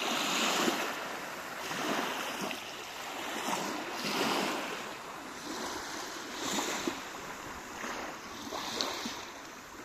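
Sea waves washing in and breaking, the rush of surf swelling and fading several times, about every two seconds.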